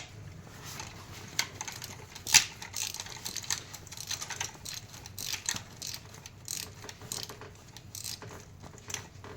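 Hand ratchet and metal tools clicking and clinking: irregular sharp clicks, with one louder clink about two and a half seconds in.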